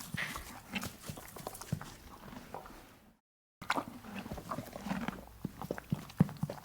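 Donkey hooves clip-clopping as it walks: irregular knocks, broken by a sudden cut to silence a little past halfway.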